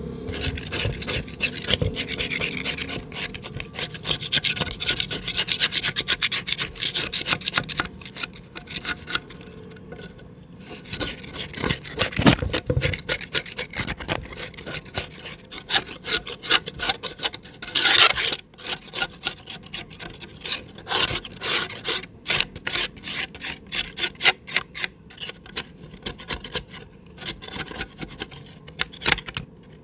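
Mud crumbling in a pot: a dense, gritty crackling and rasping with no pause, and one louder rasp a little past the middle.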